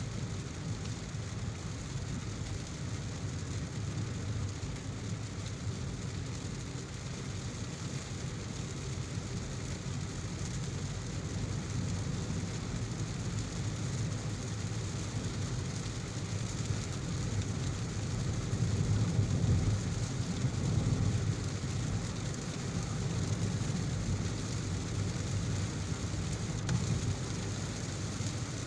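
Heavy rain falling steadily, a hiss over a deep low rumble; the rumble swells louder for a few seconds about two-thirds of the way through.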